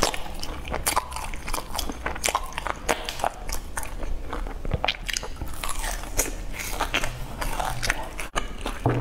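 Chewing and biting into fried sesame balls: many irregular crisp crunches and clicks of the sesame-coated crust.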